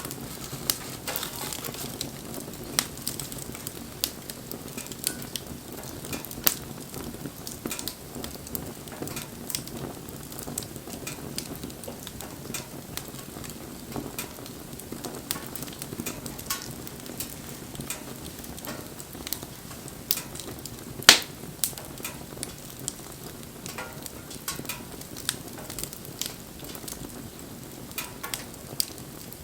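Wood campfire burning, with a steady low hiss and irregular crackles and snaps, and one louder pop about twenty seconds in.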